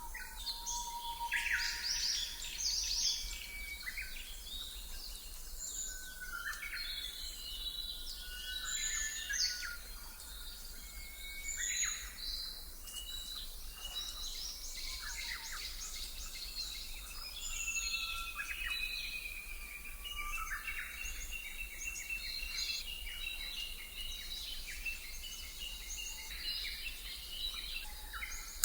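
Several birds chirping and singing, with many short calls and whistles and a long run of repeated notes in the second half, over a steady low hum.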